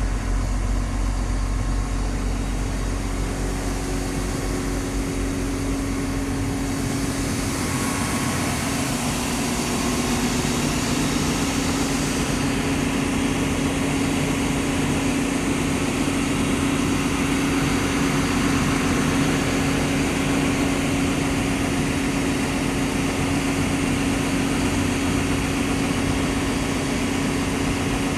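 Diesel engine of a Liugong CLG922E crawler excavator running steadily with a strong low hum. A hiss joins about seven seconds in and drops away around twelve seconds.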